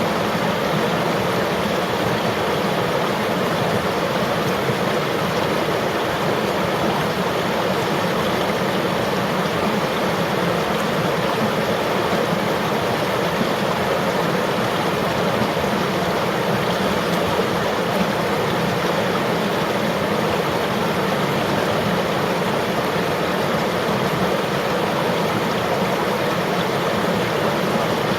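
A river or stream flowing over rocks: steady, dense rushing water without let-up.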